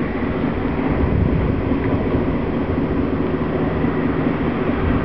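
Small car ferry's diesel engine running at a steady drone, with a low hum and faint steady tones throughout.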